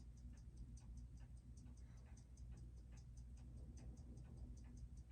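Seiko 6R15 automatic watch movement ticking faintly and evenly, about six beats a second, over a steady low hum, as it runs on a timing machine. The movement runs at low amplitude, with a balance hairspring that the watchmaker thinks is out of flat.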